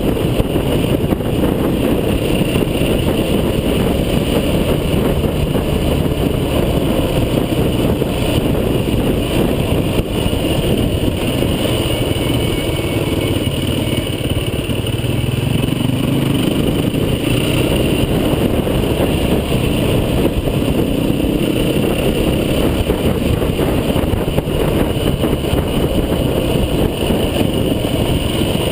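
An off-road vehicle's engine running steadily under a dense, rumbling noise, its note rising for a few seconds about halfway through.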